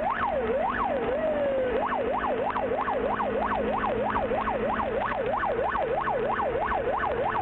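Police car siren sounding in pursuit: a slow rising and falling wail that switches about two seconds in to a fast yelp, about three up-and-down sweeps a second.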